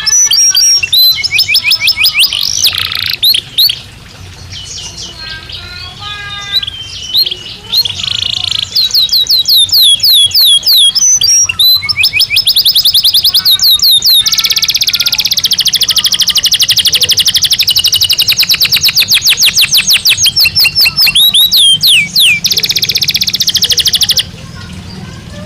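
Belgian canary singing: fast trills and rapid runs of repeated downward-sweeping notes, with long unbroken rolls in the second half. The song stops shortly before the end.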